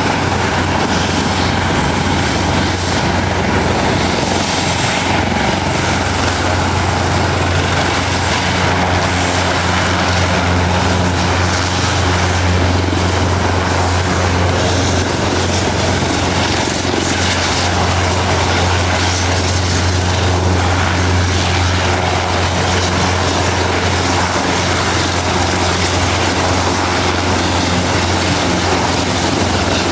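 Helicopter running steadily, a constant low rotor drone under a broad wash of engine and rotor noise, with a thin high whine that fades about a third of the way through.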